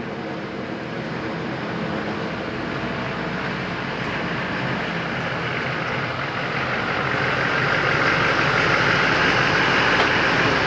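Truck engine running, growing steadily louder.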